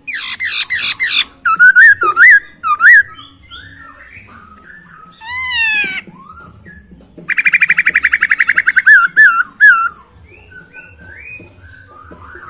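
Poksay Hongkong laughingthrush singing loudly: a varied song of clear whistled notes that sweep up and down in pitch. It opens with a quick run of falling notes, has a long falling whistle in the middle, and a rapid even trill about two-thirds of the way through, then more short whistles.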